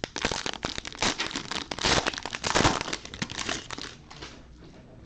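Plastic wrapper of a 2020 Absolute Football fat pack of trading cards being torn open and crinkled by hand, a dense run of crackles that dies down about four seconds in.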